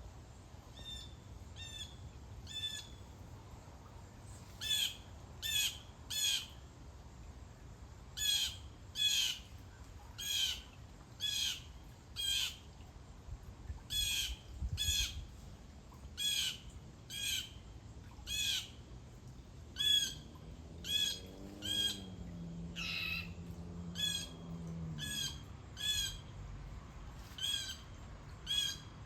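A bird giving a long series of short, harsh squawk-like calls, mostly in groups of two or three about a second apart.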